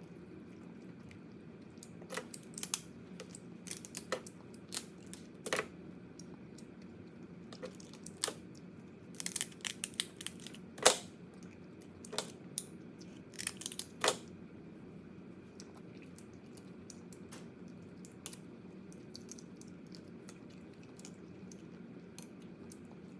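Crab shell cracking and crunching as it is bitten and pulled apart, heard as scattered sharp cracks that come thickest in the middle, the loudest about eleven seconds in. A low steady hum runs underneath.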